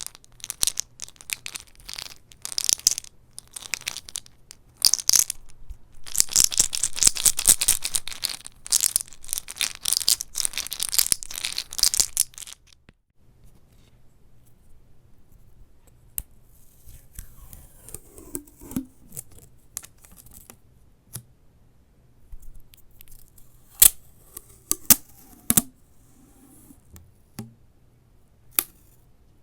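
Dense, crisp crackling and tearing sounds for about twelve seconds, which then stop abruptly. After that comes quieter handling with scattered sharp clicks.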